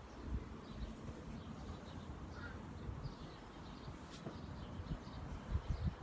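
Faint, scattered calls of a large corvid, over a low rumble of wind and handling on the microphone.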